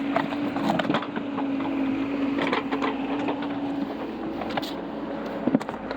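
Excavator running while digging, its engine giving a steady hum that fades about four seconds in, with several sharp clanks and knocks from the bucket working the ground.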